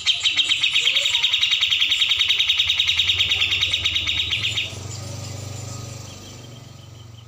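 Cucak jenggot bird call played as a songbird tutor (masteran) recording: a fast, evenly repeated run of chattering notes, loud for about four and a half seconds, then fainter and fading out, over a steady low hum.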